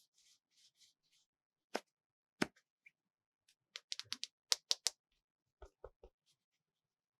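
Hands handling a plastic toy car: soft rustling at first, then sharp taps and clicks, with a quick run of them about four to five seconds in and a few duller knocks after.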